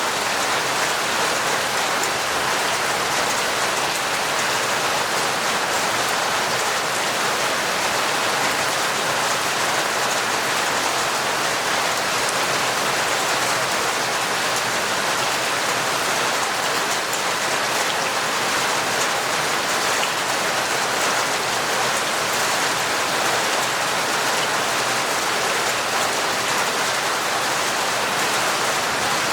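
Heavy rain falling steadily, a dense even patter of drops with no change in strength.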